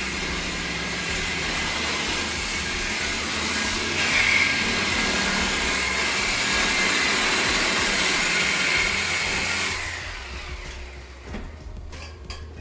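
A power cutting tool cutting through a car's exhaust pipe, taking off the tips for a straight-pipe muffler delete. The steady, harsh cutting noise stops about ten seconds in, followed by a few light knocks.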